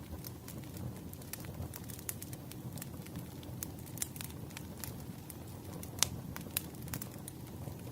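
Wood fire crackling: a steady low rumble of burning with irregular sharp pops and snaps, the loudest pop about six seconds in.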